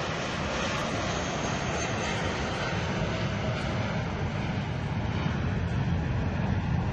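Steady low rumble of a passing airliner overhead, under the open-air ambience of a tennis court.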